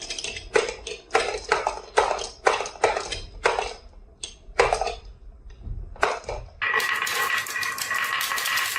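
Marbles clacking and rattling down a wooden marble-run track, a quick irregular run of hard clicks. About six and a half seconds in it cuts abruptly to a steady hiss with a steady high tone.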